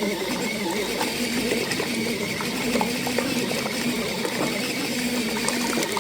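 Mini foldable washing machine running, its small motor giving a steady hum that wavers slightly, with light clicks and rattles as it churns a load of dish towels.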